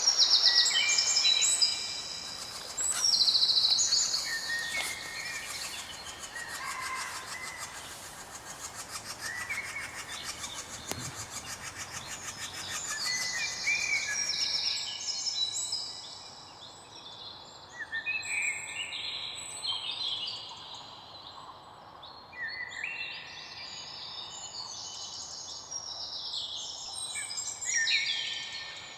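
Many songbirds singing together, short overlapping chirps and trills one after another, over a faint steady background hiss.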